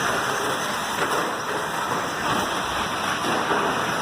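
Electric 1/10-scale 2WD short-course RC trucks racing on a dirt track: a steady rush of motor whir and tyre noise.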